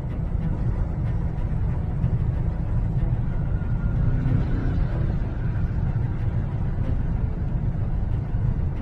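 Strong typhoon wind buffeting the microphone: a steady low rumble.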